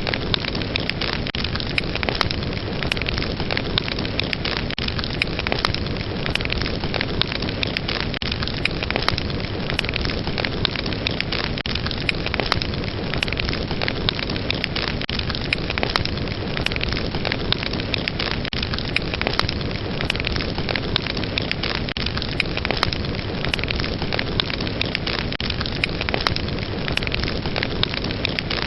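Fireplace fire crackling: a steady hiss of burning flames with frequent, irregular sharp pops and snaps.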